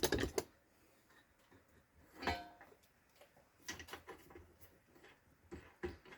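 Light metallic clicks and knocks of hand tools and steel parts being handled, with one brief ringing clink about two seconds in and a scatter of small ticks near the end.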